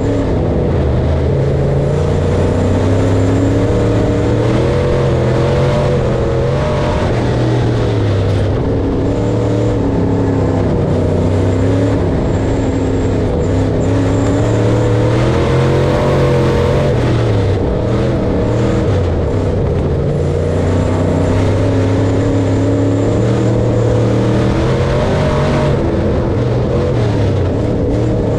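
Large farm machine's engine running steadily under load during corn harvest, its pitch wavering slightly up and down, with a faint high whine above it.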